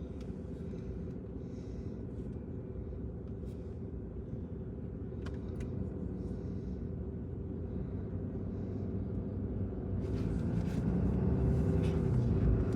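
Truck running on the road, heard from inside the cab: a steady engine and road rumble that grows louder over the last few seconds.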